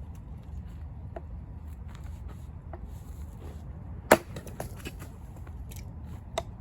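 An axe splitting firewood: one loud sharp strike about four seconds in, then a lighter knock near the end, with a few faint wooden clicks between.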